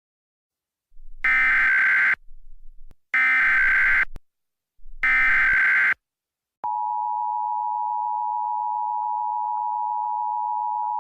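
Emergency Alert System tones: three short bursts of digital data tones (the SAME header) about two seconds apart, then, about six and a half seconds in, the steady EAS attention tone starts and holds.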